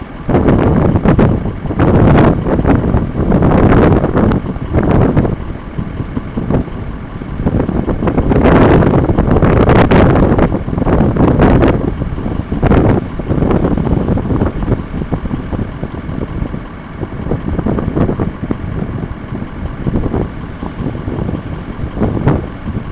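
A moving vehicle with loud rushing noise that swells and fades every second or two, heaviest in the first half and easing toward the end.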